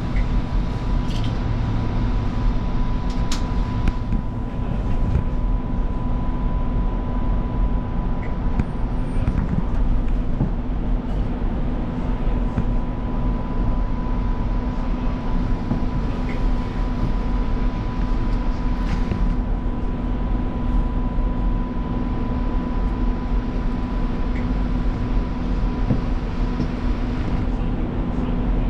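Alstom Citadis Spirit light-rail train running between stations, heard inside the passenger car: a steady low rumble of wheels on rail with a constant hum over it and a few faint ticks.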